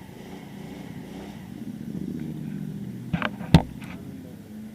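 A motor vehicle engine running, with a low hum that swells about two seconds in. Three sharp knocks come quickly one after another a little past three seconds, the last one the loudest.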